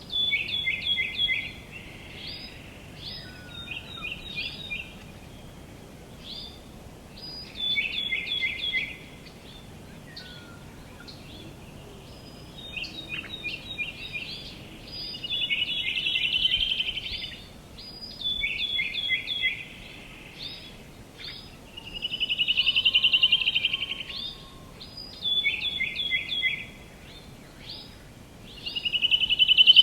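Songbirds singing: short phrases of quick, repeated chirping notes every few seconds, with louder rapid trills three times, the last and loudest near the end, over a faint steady outdoor hiss.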